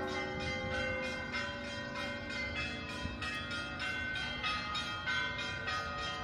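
Orthodox church bells pealing: several bells of different pitches struck in quick, continuous succession, a few strokes a second, with their tones ringing on between strokes. The ringing marks the feast of the Dormition of the Virgin.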